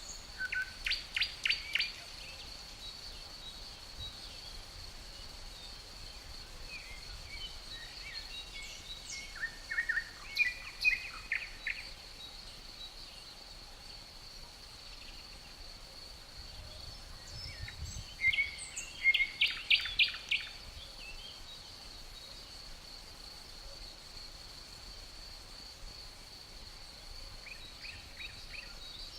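Songbirds calling in three spells of quick chirps and short whistled notes, over a steady high-pitched insect drone.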